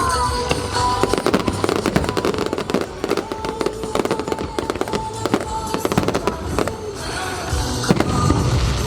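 Fireworks bursting and crackling in rapid, dense succession, with show music playing underneath; the crackling eases off near the end as the music's bass comes forward.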